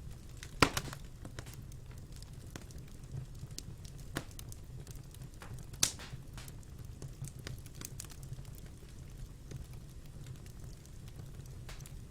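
Wood fire crackling in a fireplace: a low steady rumble of the flames with scattered sharp pops and small ticks, the loudest pop about half a second in and another near six seconds.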